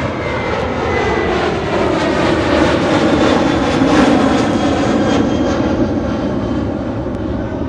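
Jet airliner's engines at takeoff power passing close by, a loud rushing with a sweeping, phasing quality. It swells to its loudest about four seconds in, then eases off.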